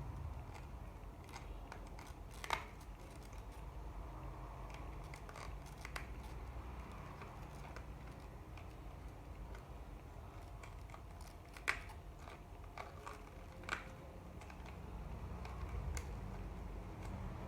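Scattered small clicks and taps over a low steady hum, with a sharper click a few seconds in and two more later on.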